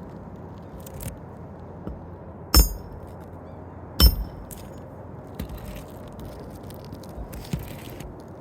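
Two sharp metal-on-metal strikes with a brief high ring, about a second and a half apart, from a hand tool working on an asphalt shingle roof, followed by a stretch of scraping and rustling as the shingles are handled.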